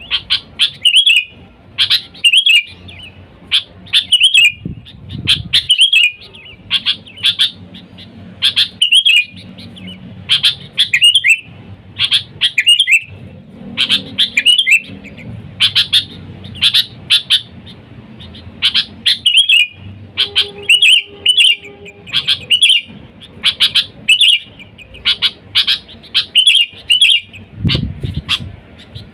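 Sooty-headed bulbul (kutilang) calling over and over in a lively run of short chirping phrases, about one to two a second, with no pause.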